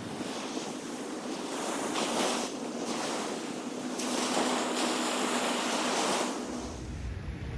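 Ocean surf washing and breaking, swelling and easing in loudness, with wind buffeting the microphone.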